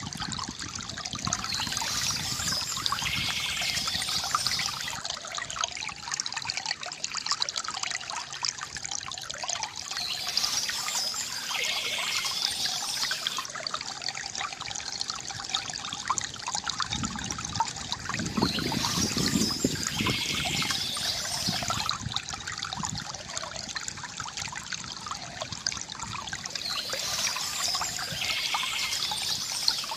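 Water trickling and gurgling steadily from a bamboo fountain, with a brighter, hissier patch coming back about every eight or nine seconds and a fuller gurgle about two-thirds of the way in.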